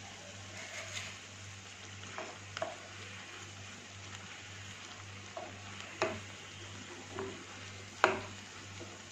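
Sabudana vadas sizzling steadily as they deep-fry in hot oil, with a wooden spatula knocking and scraping against the pan several times as they are turned and lifted out. The loudest knock comes about eight seconds in.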